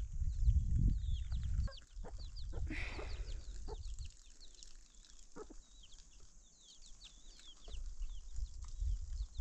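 Birds, most likely poultry, giving many quick high chirps that fall in pitch, over a low rumble that drops away about two seconds in and comes back near the end.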